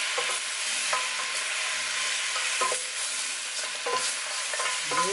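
Pieces of lamb dusted with flour sizzling in hot oil in a wok as they are tossed and stirred with two utensils, with a few sharp knocks and scrapes of the utensils against the pan.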